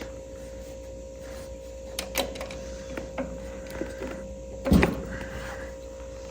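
Distributor parts and tools being handled by hand: scattered small clicks and taps, with one louder knock a little before five seconds in, over a faint steady hum.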